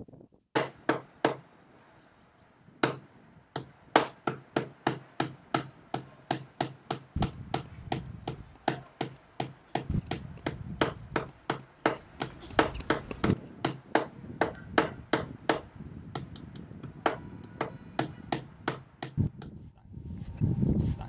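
Wooden pestle pounding chilies in a coconut-shell mortar: a long run of sharp, even knocks, about two to three a second, with a short pause near the start and stopping near the end.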